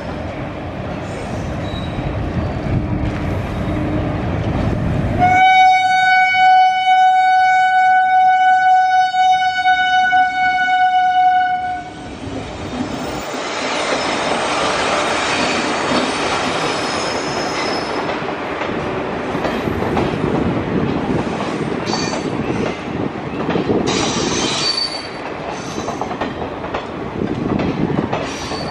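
Indian Railways passenger coaches rolling slowly over curved track and points, with a steady rumble. About five seconds in a locomotive horn gives one long, steady single-tone blast of about six seconds, the loudest sound. After it comes rolling wheel noise with brief high squeals.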